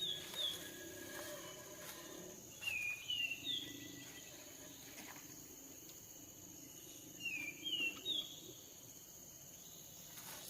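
A small bird calling in three short phrases, each a run of three quick whistled notes that slide downward, every note a step higher than the last, the phrases roughly four to five seconds apart. A steady high insect drone runs underneath.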